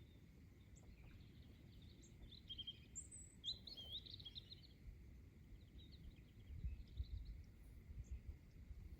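Songbirds singing faintly, with a couple of quick chirping phrases a few seconds in and softer ones after. Under them is a low, uneven rumble of breeze on the microphone.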